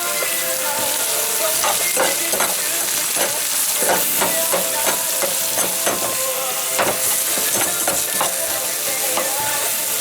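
Ground beef frying and sizzling in a pan, stirred with a utensil that clicks and scrapes against the pan.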